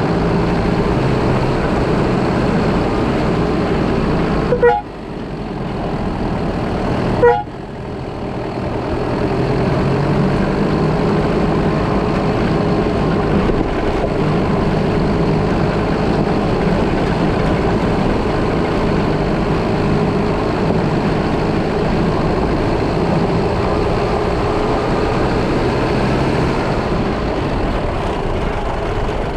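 Car driving with steady engine and road noise, and two short toots of the car's horn, about four and a half seconds in and again near seven seconds, sounded as a warning on a blind bend.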